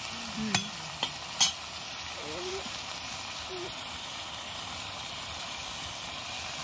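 Small prawns and fish sizzling steadily as they fry in an iron kadai, with three sharp clicks in the first second and a half.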